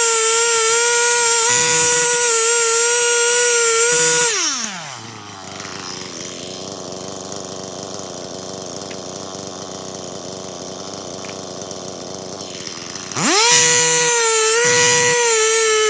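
Stihl MS 261 C-M two-stroke chainsaw run at full throttle, then let down to idle about four seconds in. It idles for about eight seconds, is revved back to full throttle, and drops off again at the very end.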